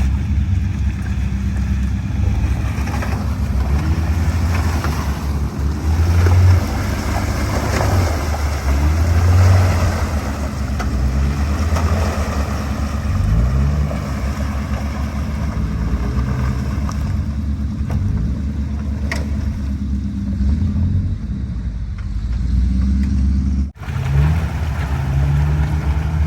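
Off-road Jeep engine revving repeatedly under load, climbing and dropping in pitch as the vehicle pushes through flooded mud, with a noisy churning and splashing of water and mud strongest in the middle stretch. The sound cuts out briefly near the end.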